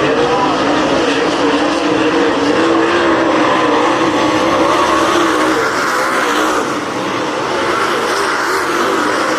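Race cars running laps at speed, their engines droning together with pitch wavering up and down. The level dips slightly about seven seconds in.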